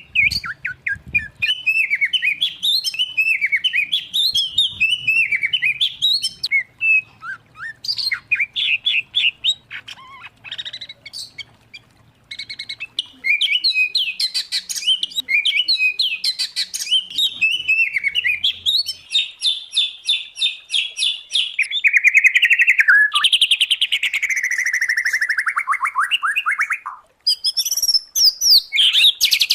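Songbirds from a mixed recording of white-rumped shama, oriental magpie-robin and greater green leafbird singing a loud, continuous, varied song of whistles, chirps and fast trills. About two-thirds through comes a run of rapid repeated notes, followed by falling, buzzy phrases.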